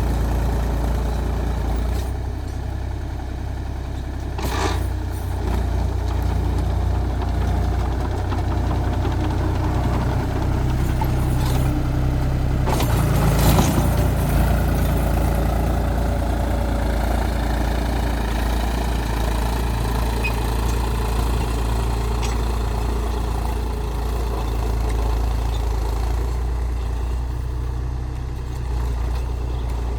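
Mahindra 275 DI TU tractor's three-cylinder diesel engine running steadily while driving a rotavator. There is a brief clatter about four and a half seconds in and a louder one around thirteen seconds.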